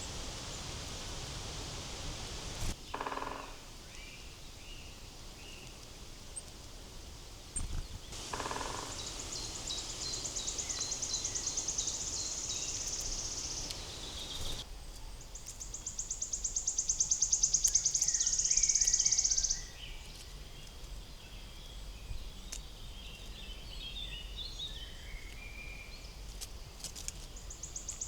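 Insect stridulating in forest ambience: long, very fast, high-pitched buzzing trills lasting several seconds each, two in the middle and another starting at the end. There are a couple of short knocks and scattered faint bird chirps.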